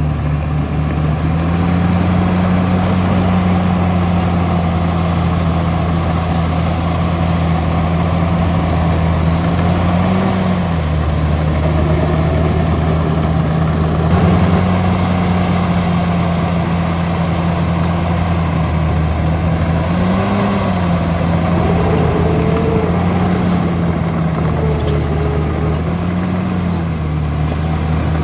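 Heavy diesel engine of earthmoving machinery running steadily, rising briefly in pitch four times, about ten, twenty, twenty-two and twenty-six seconds in, as it takes load.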